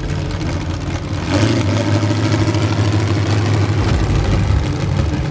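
Demolition derby car's engine running close by, growing louder about a second in and easing off near the end.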